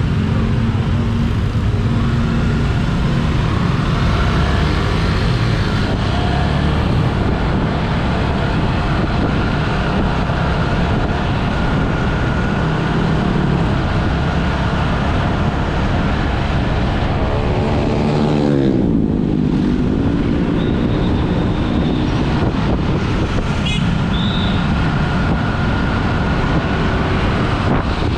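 Road traffic and wind rumble heard while travelling along a road, with engine noise throughout. About two-thirds of the way in, a vehicle engine's pitch drops steeply, as when a vehicle slows or passes by.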